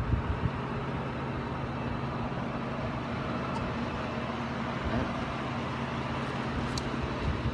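Car engine idling, a steady low hum heard from inside the cabin, with a couple of faint ticks.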